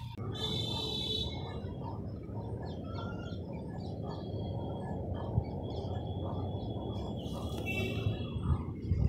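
Birds calling over a steady low background noise: one high, buzzy call about half a second in, and another near the end.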